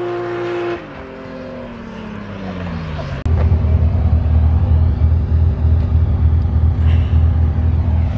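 A car engine is held at high revs during a burnout, then drops off and winds down over about two seconds. About three seconds in, a loud, steady low idle from a white BMW E36 right beside it takes over.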